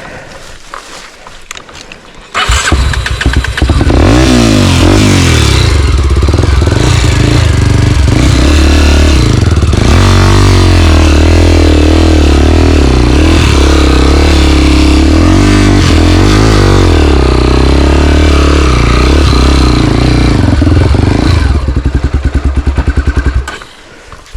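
Single-cylinder dirt bike engine opened up hard about two seconds in for a hill climb, then held at high revs with its pitch rising and falling. Near the end it drops back to slow, separate firing pulses and fades.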